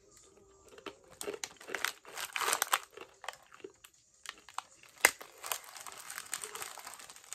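Crunching of a crisp, sweet fried-dough wheel snack being chewed, in irregular crackly bursts, with one sharp crack about five seconds in.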